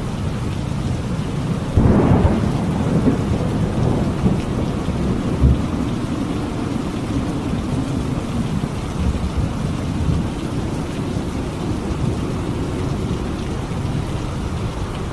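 Thunderstorm: steady heavy rain with rolling thunder. A low rumble of thunder swells about two seconds in and dies away over the next few seconds while the rain keeps falling.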